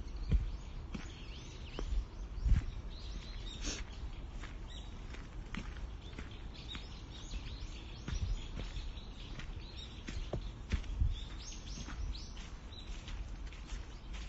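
Small birds chirping, many short, quick calls scattered throughout, over a steady outdoor hiss, with a few low thumps now and then.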